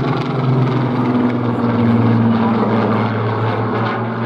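Piston aero engine of a Second World War propeller fighter in a display pass: a loud, steady drone whose pitch lifts slightly about a second in and eases near the end.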